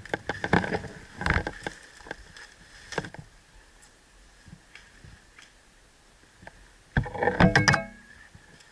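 Scattered knocks and rustles of gear and movement, then about seven seconds in a short, rapid run of loud clicks with a brief mechanical whir, like a burst from an electric airsoft rifle.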